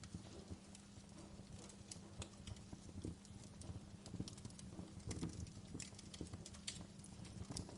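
Wood fire burning in a fireplace, crackling and popping at irregular intervals over a low rumble of the flames.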